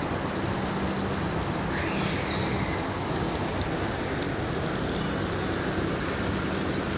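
Ferry engine running with a steady low drone, under a constant rushing noise.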